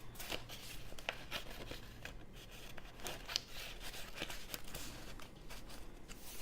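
Pages of a handmade junk journal being turned and handled: papers, cards and envelopes rustling and crinkling, with many small sharp crackles.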